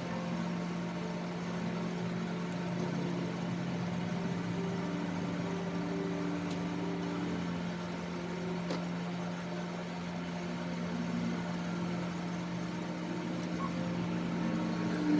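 Electric dog grooming clippers running with a steady motor hum, the pitch shifting briefly now and then as the blades work through the coat.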